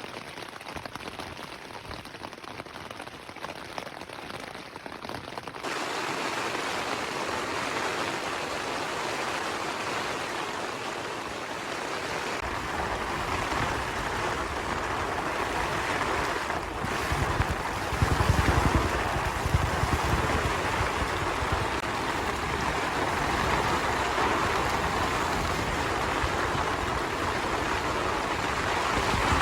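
Heavy rain and strong wind beating on a tent in a storm. The rain is a steady hiss that grows louder about six seconds in. Gusts of wind add a low rumble from about halfway, strongest a little past the middle.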